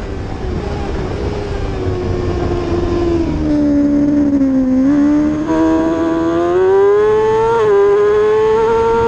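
Road-racing motorcycle engine at high revs. The revs ease off to a low point about four and a half seconds in, then climb again, with a brief dip at a gear change near seven and a half seconds.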